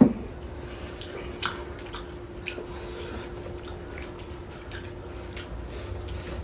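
Eating sounds from people working through a whole roasted chicken: scattered soft, wet clicks and smacks of chewing and biting meat over a faint steady hum. There is one short loud sound right at the start.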